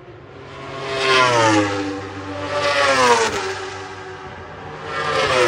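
Three racing vehicles passing close by one after another, each engine rising to a peak and dropping sharply in pitch as it goes past.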